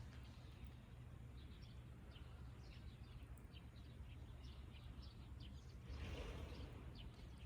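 Faint, scattered chirps of small birds over a steady low background rumble, with a brief rush of noise about six seconds in.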